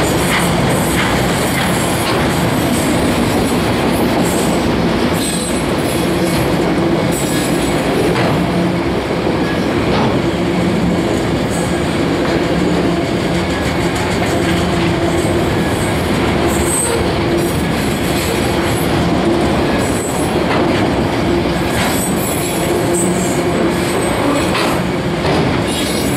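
Loaded autorack freight cars rolling past at close range: a steady rumble of steel wheels on rail, with clicks over the rail joints and occasional high wheel squeal.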